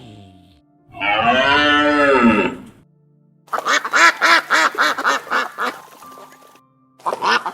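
A single long cattle moo that rises then falls in pitch, followed by a duck quacking in a fast run of about four quacks a second, which breaks off briefly and starts again near the end.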